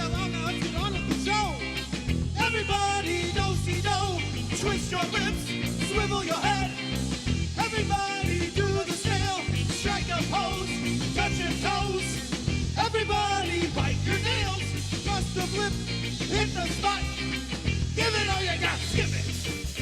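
Live band playing an upbeat new-wave rock song: a passage without lyrics, with an even beat and a wavering lead melody line over it.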